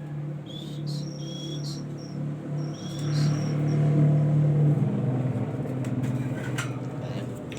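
Short high chirps and whistles from a small bird, a prinia, over a steady low motor-like hum that is the loudest sound and shifts slightly in pitch about two-thirds of the way through.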